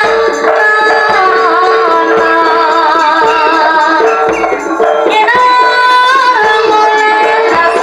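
Live Javanese jaranan music: an ensemble with a steady drum beat under a held low tone and a wavering, ornamented melody line.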